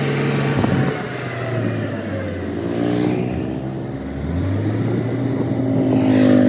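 A vehicle engine running, its pitch dropping about a second in and then climbing again toward the end as it revs up.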